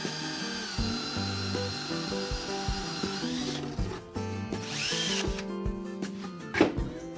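Power drill running with a 5/8-inch masonry bit, boring out a lawn mower wheel hub. The motor whine drops in pitch under load about a second in, then climbs again a few seconds later.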